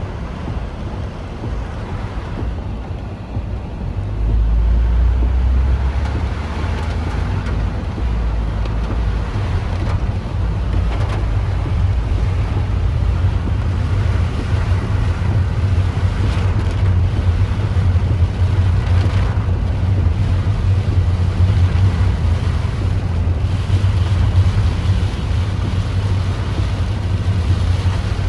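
Strong typhoon wind buffeting the microphone as a deep, gusting rumble, with a sudden rise in loudness about four seconds in.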